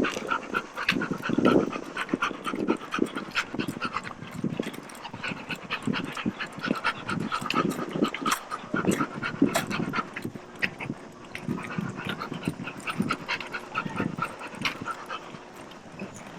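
A dog panting, with many short sharp clicks.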